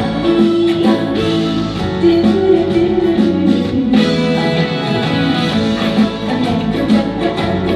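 Live band playing an instrumental passage between the sung lines of a song, with guitar prominent and no voice.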